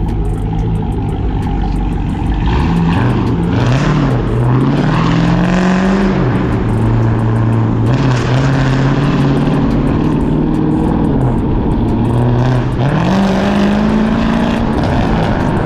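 Cammed, catless, straight-piped Chrysler 300C HEMI V8 exhaust under way: the engine climbs in pitch on acceleration a couple of seconds in, holds a steady pull through the middle, eases off, then climbs again near the end.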